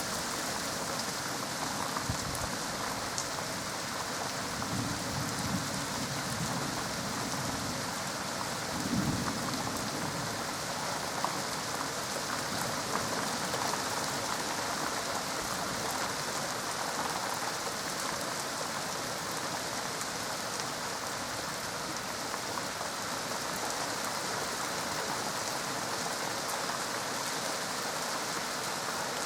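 Steady rain falling on a surface, an even hiss throughout. A low rumble of thunder comes in about four seconds in, with a second swell around nine seconds.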